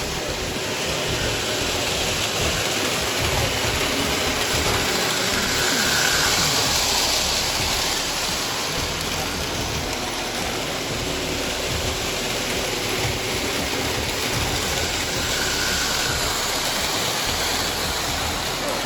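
Steady rushing noise with a low rumble from model trains running on display layouts, mixed with the general din of a busy hall.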